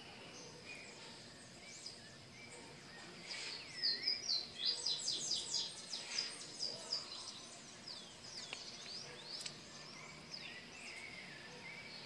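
Several songbirds chirping and calling, with repeated swooping notes and a quick run of high chirps from about four to six seconds in.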